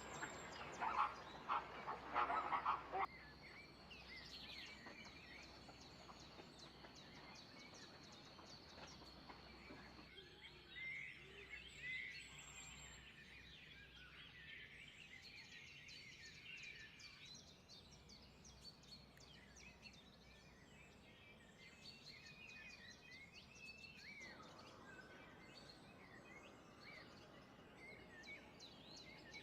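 Faint birdsong from many small birds chirping and calling. A thin high note is held for several seconds near the start. Louder, rapid calls come in the first three seconds.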